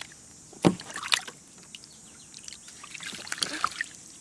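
Toy animals being handled in shallow water: small splashes and clatter, with one sharp knock under a second in.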